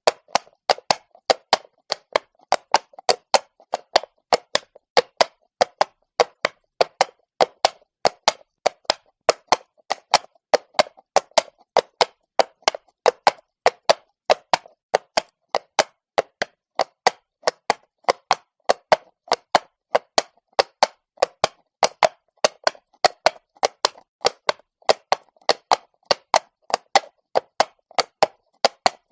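A horse's hooves walking on cobblestones: an even four-beat clatter of sharp clops, about four a second, with no other sound between them.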